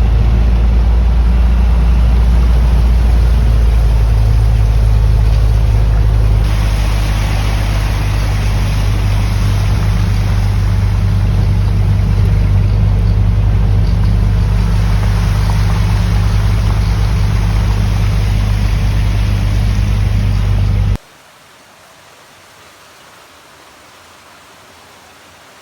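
A vehicle engine runs steadily with a low hum under a loud rush and splash of water, which grows brighter about six seconds in. The water is typical of driving on a flooded road. With about five seconds left it cuts off suddenly to a faint steady hiss.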